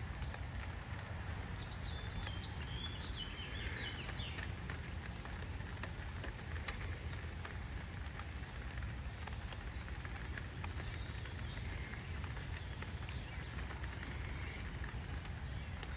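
Light rain falling on a tent canopy overhead, a steady hiss with scattered small ticks of drops and a low rumble beneath. A bird chirps briefly about two seconds in.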